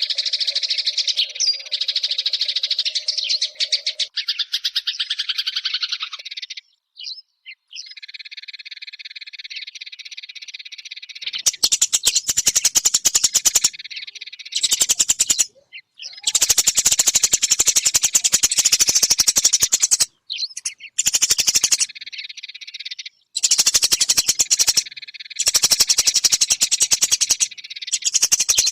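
Eurasian tree sparrow chirping in fast chattering runs of high notes, which break off abruptly several times.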